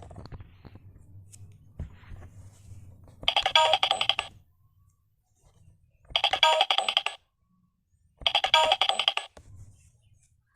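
Telephone ringing: three rings of about a second each, with a rapid trill, played as a sound for children to identify.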